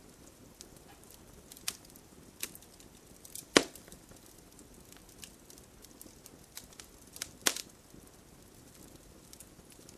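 Wood fire burning in a fireplace: a low steady hiss with scattered sharp crackles and pops. The loudest snaps come at about three and a half and seven and a half seconds in.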